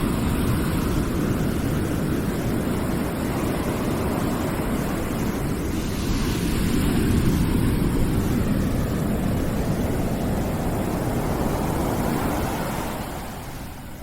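Dense rushing background noise, heaviest in the low range, with no distinct events; it swells slightly around the middle and fades near the end.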